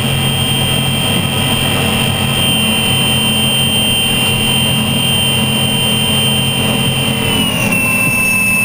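Lycoming T55 turbine engine of an unlimited hydroplane running loud, heard onboard, with a high steady whine that slides down in pitch near the end as the turbine winds down.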